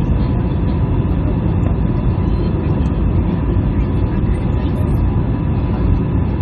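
Airbus A321 cabin noise: a steady, even drone of engines and airflow, heaviest in the low range, with a faint constant hum on top.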